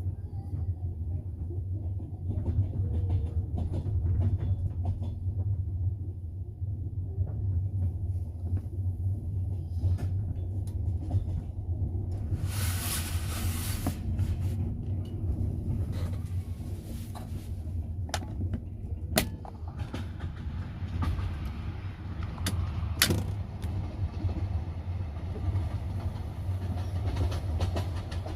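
A moving double-decker passenger train heard from inside the carriage: a steady low rumble of the wheels on the rails, with a few sharp knocks, two of them standing out in the second half. About twelve seconds in, a loud rushing noise lasts about a second and a half.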